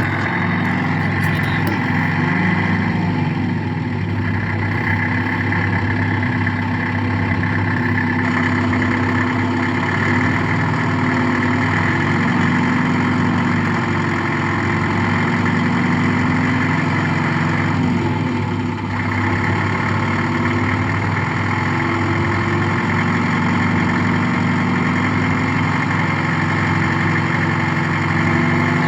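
Red Tractor coin-operated kiddie ride running, its speaker playing a steady tractor engine idling sound.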